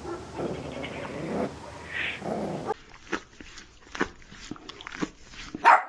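Small puppy yipping: short sharp yelps about two a second from about three seconds in, the last one the loudest.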